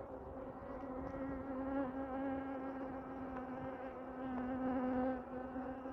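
Honeybees buzzing around an open hive: a steady hum at one pitch.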